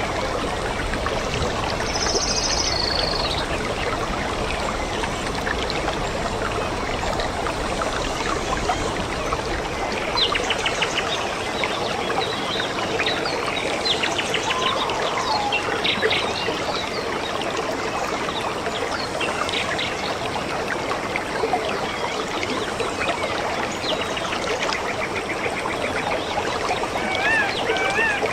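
Steady rush of a flowing stream with birds chirping and calling over it, the calls busiest from about ten seconds in; near the end one bird repeats a quick wavering phrase.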